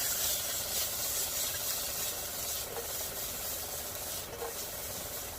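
Steady rubbing, scraping sound, with a single short click about four seconds in.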